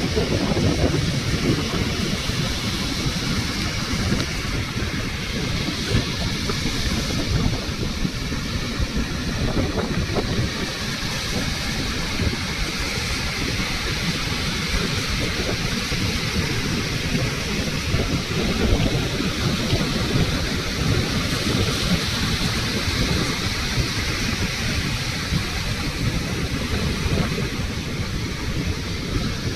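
Sea surf washing onto a beach as a steady, continuous roar of breaking waves, with wind buffeting the microphone.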